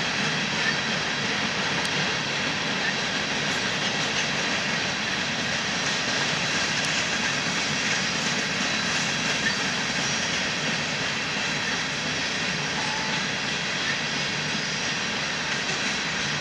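Covered hopper cars of a freight train rolling past: the steady rolling noise of steel wheels on the rails.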